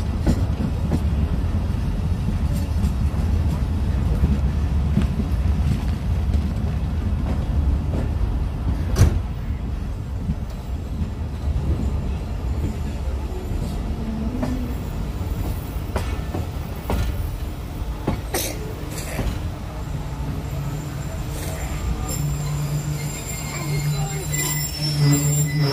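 Awam Express passenger coaches rolling into a station and slowing: the low rumble of the running gear fades as the train loses speed, with a few sharp knocks from the wheels and couplings. Near the end the brakes squeal as it draws to a stop.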